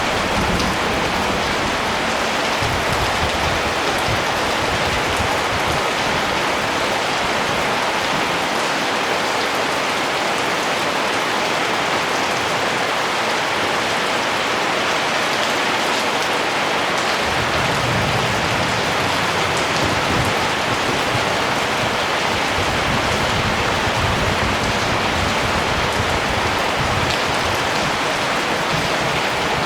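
Steady rain falling, a dense even hiss of drops, with a low rumble coming and going in the second half.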